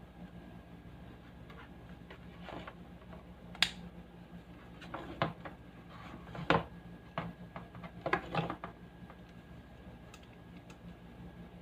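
Scattered clicks and taps of small tools or parts being handled, the sharpest about a third, halfway and two-thirds of the way in, over a steady low hum.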